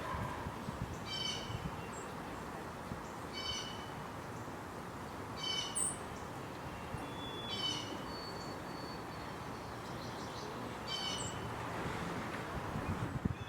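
A bird repeating a short, nasal call five times, about every two seconds, with a couple of high, thin chips from another bird, over steady background outdoor noise.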